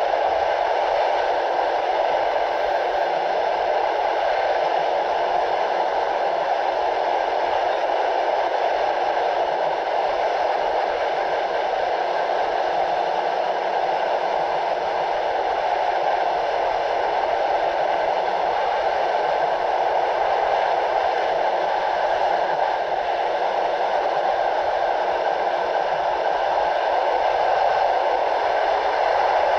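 Steady rushing noise of a passenger train coach running at speed on the rails, heard from the coach window, with wind on the microphone reduced by processing.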